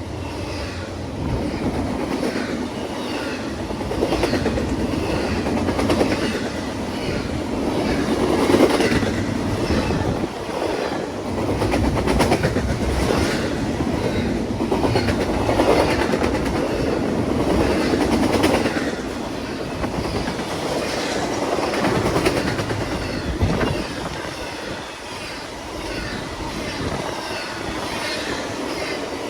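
Train rolling past on the rails, its wheels clacking over the track in a steady rhythm, the sound swelling and easing every few seconds as the cars go by.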